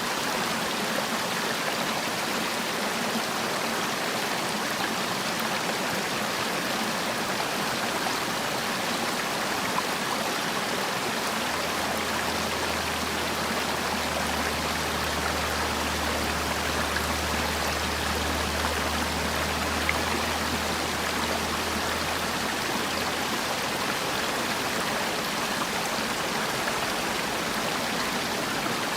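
Mountain stream rushing steadily over rocks, an even flow of water noise. A low hum comes in beneath it for about ten seconds in the middle.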